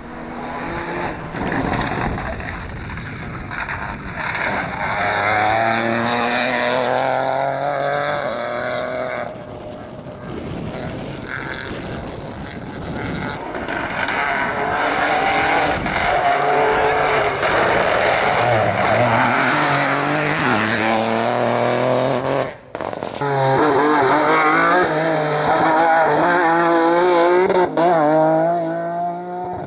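Rally cars driving flat out, their engines revving high and dropping back with each gear change. The sound breaks off abruptly twice as one car's run gives way to another's.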